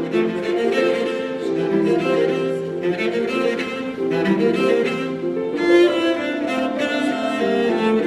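Background music played on bowed strings, cello and violin, with notes held and changing at a moderate pace.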